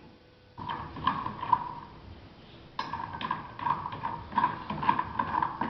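Pinhão (Araucaria pine seeds) being stirred with a spoon in a dry pan as they roast, the seeds and spoon clattering and scraping against the pan. It comes in two spells of stirring, about half a second in and again from about three seconds in.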